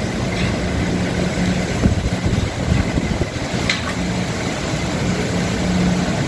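Hurricane-force wind blowing hard outside the building, a loud, steady rush, with a low steady hum underneath.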